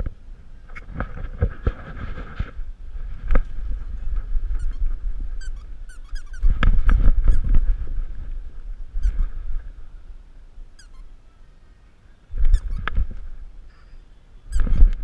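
Bumps, rubbing and rumbling bursts picked up by an action camera strapped to a dog's harness as the dog moves about during play, with the loudest bursts about halfway through and near the end.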